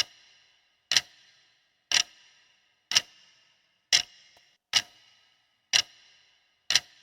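Clock ticking about once a second, with sharp clicks that each ring briefly, marking the countdown of a quiz answer timer.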